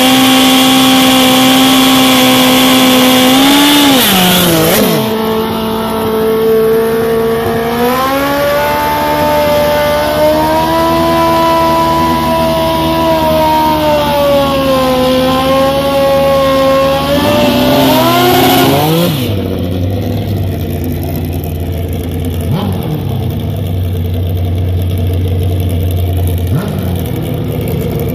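Suzuki drag motorcycle's engine held at high revs through a burnout with the rear tyre spinning, then dropping off and rising and falling in pitch as the bike is rolled back and staged. After about 19 seconds it settles to a low, loud idle, and right at the end the revs sweep up hard as it launches.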